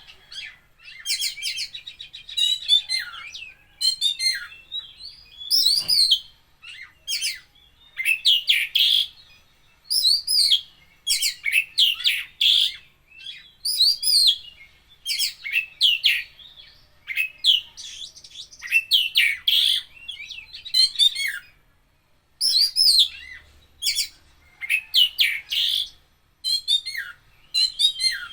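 Oriental magpie-robin (kacer) singing continuously: loud whistled and trilled phrases, one every second or two with short pauses, varied and packed with mimicked calls of other birds.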